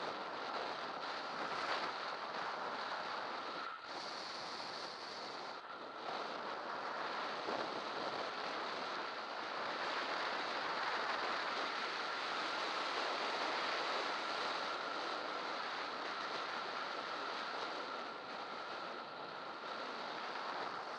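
Rushing wind on the microphone and tyre noise from a bicycle coasting downhill at speed, steady with a thin constant whine.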